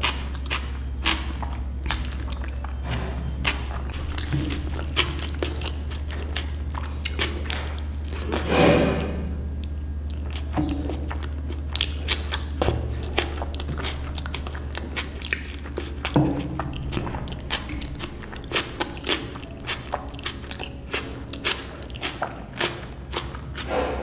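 Close-miked chewing and mouth sounds of a person eating dal and rice: many small wet clicks and smacks, with one louder burst about nine seconds in, over a steady low hum.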